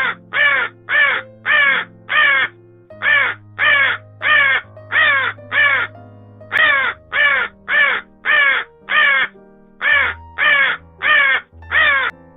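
A bird calling in four runs of five or six short calls, about two a second, each call falling in pitch. Soft background music plays underneath.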